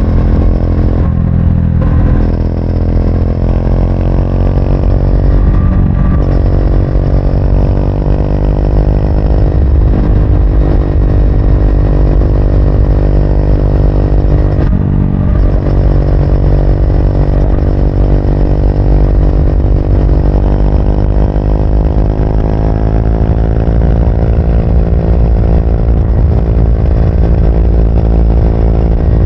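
Triumph Speed 400's single-cylinder engine running as the motorcycle is ridden, with brief dips about 1, 6 and 15 s in, as at gear changes, and a slow rise in pitch through the middle of the stretch as it picks up speed.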